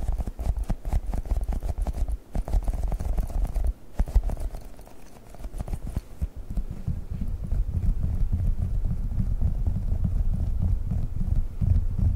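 Rapid fingertip tapping on globbles, soft squishy gel toy balls, making a dense patter of dull taps. It eases off briefly about four seconds in, then comes back as heavier, lower thuds.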